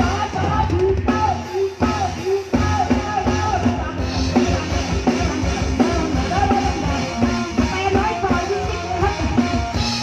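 A live band playing an upbeat number, with a drum kit keeping a steady beat under a wavering melody line.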